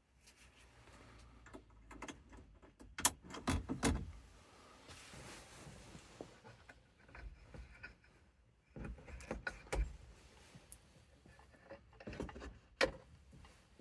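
Handling noises: several clusters of clicks, knocks and light clatter, the sharpest about three seconds in and again near the end.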